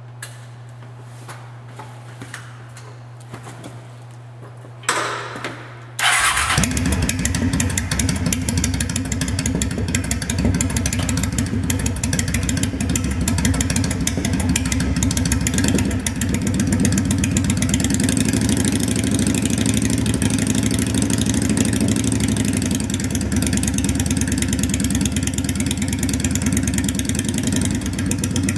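Honda Shadow VT750DC's V-twin engine with Cobra Street Rod exhaust being started: a brief crank about five seconds in, then it catches about a second later and settles into a steady idle. The exhaust note echoes off the walls of a parking garage.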